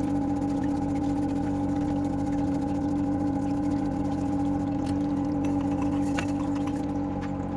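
Hilti TE 70 ATC rotary hammer's electric motor running steadily at a constant pitch.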